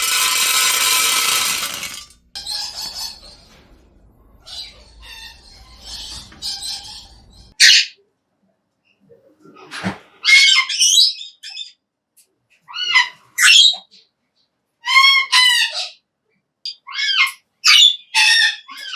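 Major Mitchell's cockatoo calling: a harsh screech at the start, then from about halfway a run of short squawks, each bending up and down in pitch, around seven in all.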